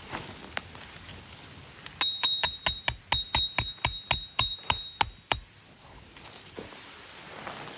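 A hammer striking metal in a quick run of about fifteen blows, around five a second, each with a bright metallic ring, after two lone taps near the start.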